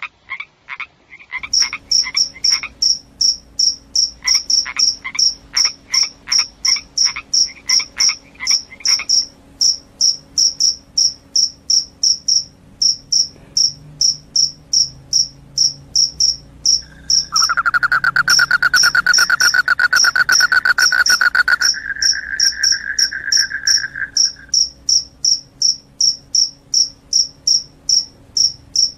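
Crickets chirping: an even train of short, high-pitched chirps, about two to three a second. A lower pulsing call runs alongside over the first nine seconds, and a lower continuous trill joins from about 17 to 24 seconds.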